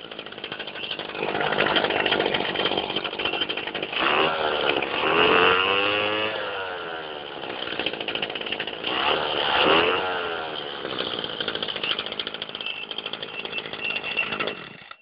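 Small engine of a Maruyama grass cutter (brush cutter) running after repair, revved up and let back down several times, most clearly around four to six seconds in and again around nine to ten seconds in. It runs and revs evenly, working okay.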